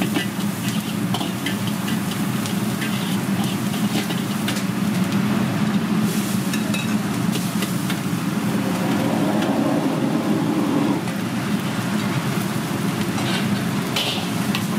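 Food sizzling as it fries, stirred with a metal utensil that gives scattered clicks and scrapes, over a steady low roar.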